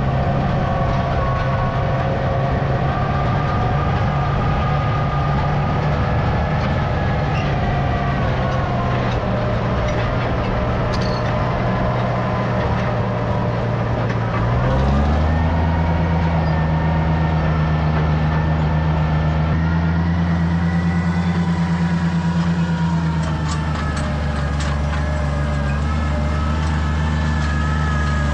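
Farm tractor engine running steadily while pulling a hay rake. About halfway through, the engine note steps up and holds higher, and a wavering whine runs above it.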